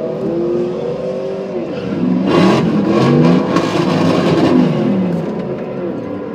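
Car engines at a drag strip: a steady engine note, then from about two seconds in several engines rev and accelerate, their pitches rising and falling, louder for a few seconds before settling back.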